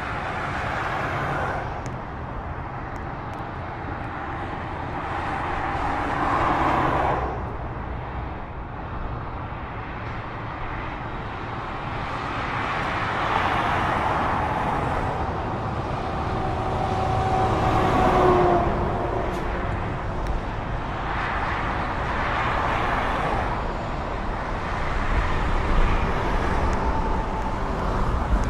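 Road traffic: vehicles passing one after another, each swelling and fading, with a brief steady tone about two-thirds of the way through.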